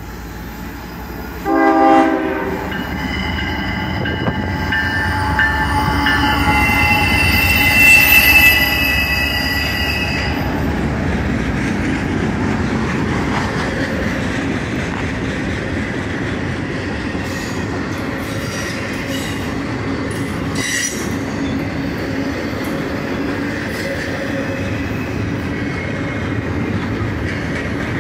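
CSX intermodal freight train passing close by. A short horn blast comes about a second and a half in. The locomotives pass loudest around eight seconds, with high-pitched wheel squeal, and then a long line of container and trailer cars rolls by with a steady rumble and wheel clatter.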